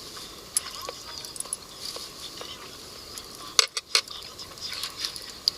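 Cooking gear being handled: scattered light clicks and clinks over a steady hiss, with a quick run of sharper clicks a little past halfway.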